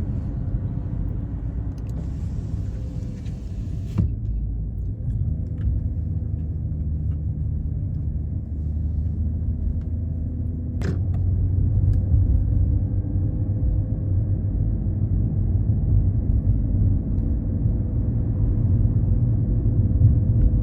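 BMW 540i's B58 turbocharged 3.0-litre straight-six, breathing through an ARP aftermarket exhaust, giving a low, steady drone while driving. From about halfway through, the engine note slowly climbs in pitch and gets louder as the car pulls harder. Two sharp clicks come through, about four and eleven seconds in.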